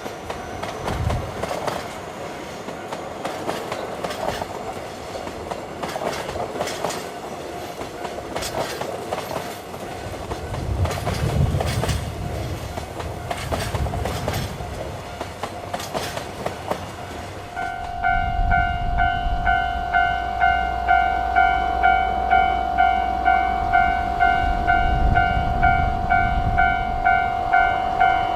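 A train running through the station, its wheels clicking over rail joints with a faint squeal. After about 18 seconds the sound changes abruptly to a Japanese level-crossing alarm bell ringing steadily at a bit more than one beat a second, over a low rumble.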